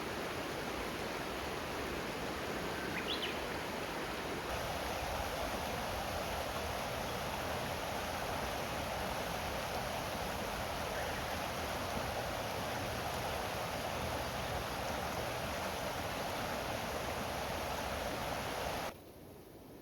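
Steady rushing noise of flowing water, with a faint short chirp about three seconds in. The sound changes slightly about four and a half seconds in and drops away abruptly near the end.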